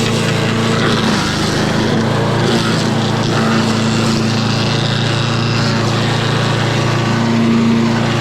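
Craftsman 8.5 hp chipper-shredder's single-cylinder engine running steadily at full throttle, its cutter spinning, after a carburettor cleaning that got it going again.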